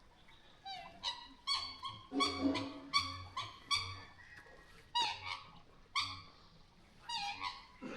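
An animal calling over and over in short, sharp calls that drop in pitch, about a dozen of them, with a pause just after the middle.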